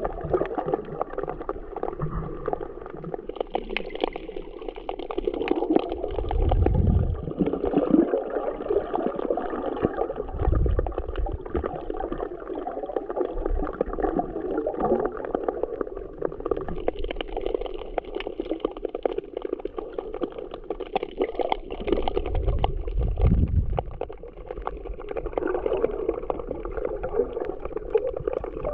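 Muffled seawater gurgling and sloshing as heard by a camera underwater, with a few heavy low surges of moving water.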